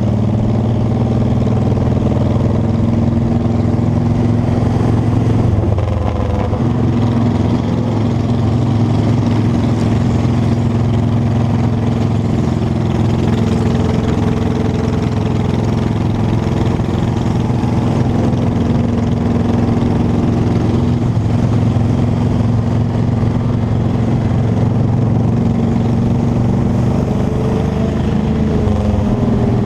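Motorcycle engine running steadily while riding, with a noisy rush over it; the engine note breaks briefly about six seconds in, then settles again.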